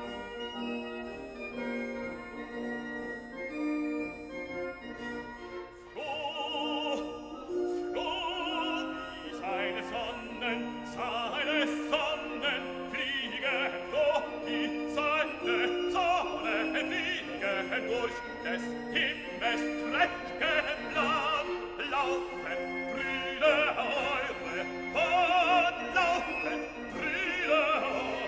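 Classical music: held instrumental notes at first, then from about six seconds in an operatic voice singing with strong vibrato over a sustained accompaniment.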